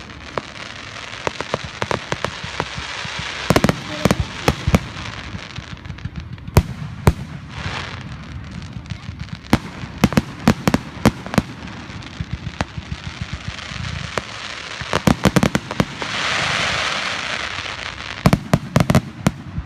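Aerial fireworks going off: many sharp bangs, some in rapid volleys, over a constant crackle, with a hissing burst swelling up about sixteen seconds in.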